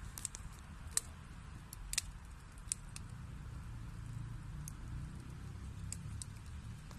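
Wood fire burning in a fireplace: a steady low rumble with scattered sharp crackles and pops of the burning wood, the loudest at about one and two seconds in.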